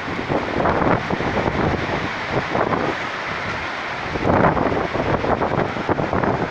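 Gusty wind buffeting the microphone: a loud rushing noise that swells and eases, loudest about four and a half seconds in.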